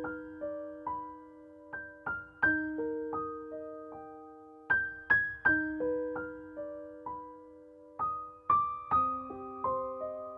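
Background piano music: a slow phrase of single struck notes, each left to fade, repeating every few seconds.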